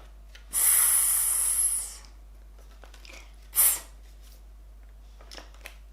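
A woman voicing letter sounds without voice: a long hissed "sss" about half a second in, then a short, sharp consonant puff a little past halfway.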